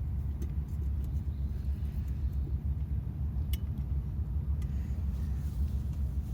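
Low, buffeting rumble of wind on the microphone, with a few faint clicks.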